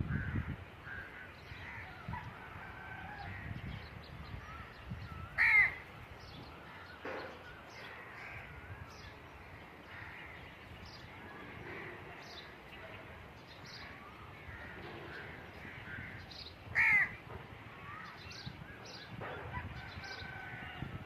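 A bird gives two short, loud calls about eleven seconds apart, with fainter high chirps and calls from other birds in between.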